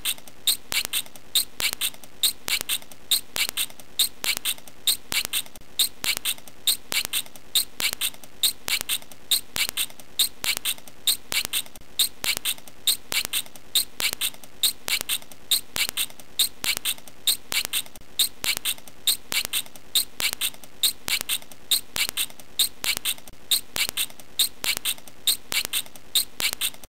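A small animal's call: short, high-pitched chirps repeated evenly, about two or three a second.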